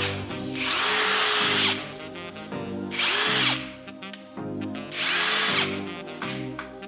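Parkside Performance PDSSAP 20-Li A1 cordless impact driver run in three short bursts, the first about a second long and the other two shorter, its motor pitch rising and falling with each trigger pull. Music plays underneath.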